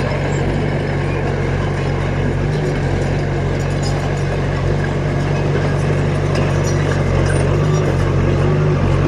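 Diesel engine of a heavy construction machine running steadily, a deep even drone with no change in pitch.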